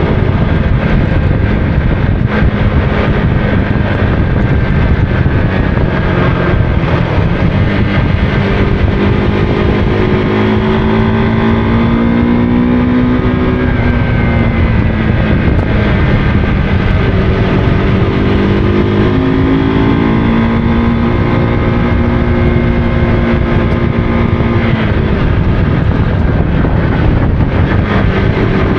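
Motorcycle engine running while riding, its pitch rising and falling with the throttle, over heavy wind rumble on the microphone.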